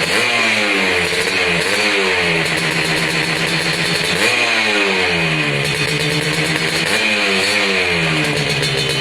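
Yamaha RX-King two-stroke single-cylinder motorcycle engine with an aftermarket exhaust being revved on the throttle: about four quick blips, each rising sharply in pitch and falling slowly back toward idle. The exhaust is meant to sound like a Kawasaki Ninja two-stroke.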